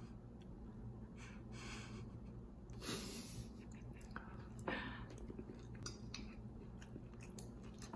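A person chewing grilled meat close to the microphone, with scattered small clicks and a brief louder rustle about three seconds in, over a low steady room hum.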